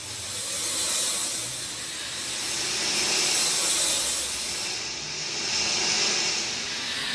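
Rain falling steadily, a dense hiss of drops that swells and eases every couple of seconds.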